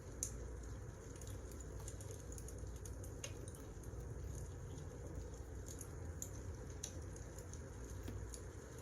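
Wood fire burning: a steady low rush of flame with small irregular crackles and pops from the logs.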